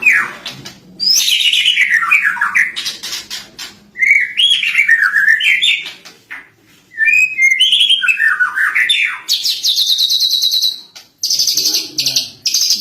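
Lovebird singing a long, varied song of fast chattering trills that sweep up and down, in phrases split by short pauses, with high buzzing rattles from about nine seconds in; the song includes phrases copied from the cililin.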